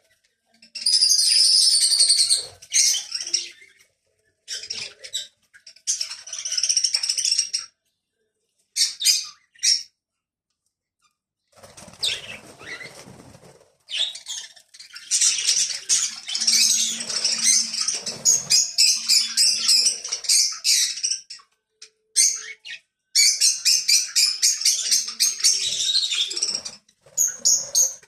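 Many birds chirping and squawking together in dense, rapid high-pitched chatter, coming in stretches broken by several short, sudden silences.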